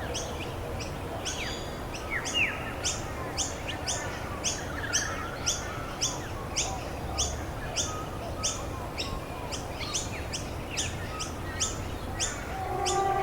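Birds singing over a steady hiss of rain. One bird repeats a short, high call about twice a second, with other birds chirping around it.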